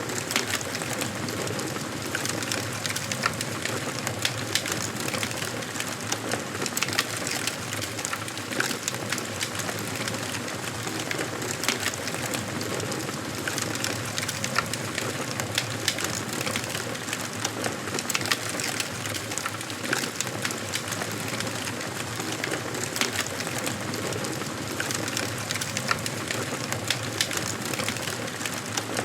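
Wood fire burning in a fireplace: a steady noise of flames with frequent, irregular crackles and pops.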